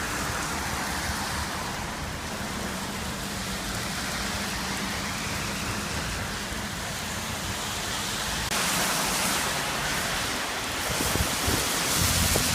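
Heavy rain pouring in gusty wind during a severe thunderstorm, getting louder about two-thirds of the way through. A low rumble of thunder begins near the end.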